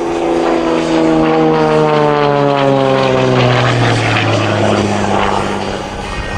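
Xtreme Air XA41 Sbach 300 aerobatic plane's six-cylinder engine and propeller, loud, its note falling steadily in pitch for about four seconds and then holding at a lower, steady pitch.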